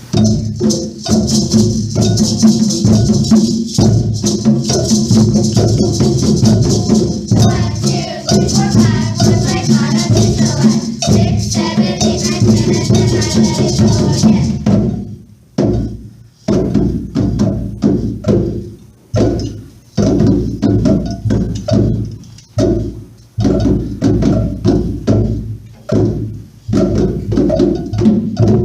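Children's percussion ensemble playing a piece in a steady beat: pitched struck notes carry the tune over tambourine and shaker. The tambourine and shaker drop out about halfway, leaving the struck notes and sharp wood-block-like taps.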